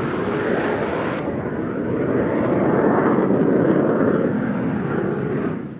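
Fixed-wing aircraft engine running loud and steady, swelling a little in the middle and cutting off abruptly near the end.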